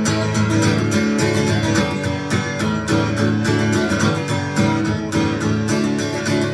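Acoustic guitar strummed in a steady rhythm: the instrumental intro of a song, before the singing comes in.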